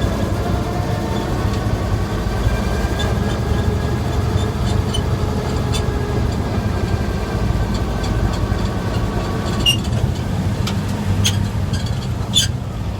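1947 GMC truck on the move: the engine runs with a steady low drone under a faint whine that wavers in pitch. Several sharp clicks and rattles come in the last few seconds.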